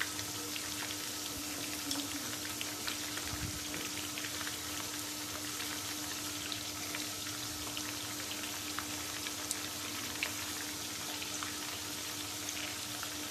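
Hot oil sizzling steadily around chicken drumsticks frying in a pan, with many small crackling pops, as sliced onions are added. A faint steady hum runs underneath.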